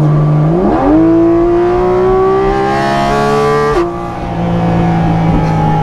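Porsche 718 Cayman GT4 RS's naturally aspirated 4.0-litre flat-six accelerating hard under full throttle. Its pitch climbs steeply, then keeps rising for about three seconds. Near four seconds in the pitch drops suddenly as it shifts up a gear, and the engine carries on at a steadier note.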